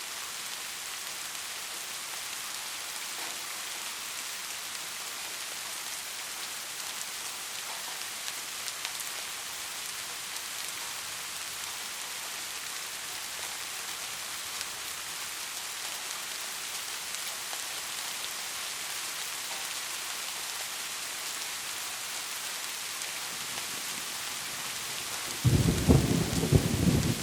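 Steady heavy rain hissing, with a sudden loud clap of thunder near the end that rolls on in a low rumble.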